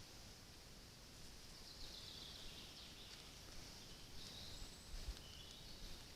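Faint outdoor ambience with distant, thin, high bird calls: one drawn-out call falling in pitch about two seconds in, and a few short ones around four to five seconds in.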